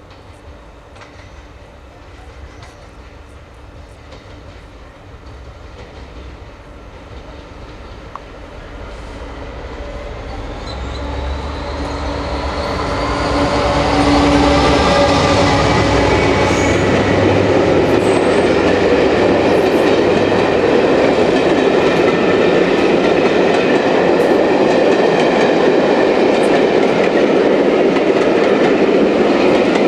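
A train approaching and passing close by. It grows louder over about six seconds, then holds a loud, steady rumble of wheels on rail with clickety-clack and high whining from the wheels.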